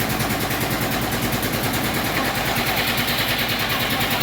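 Engine of a portable band sawmill running steadily with a fast, even pulsing. A hiss grows stronger near the end.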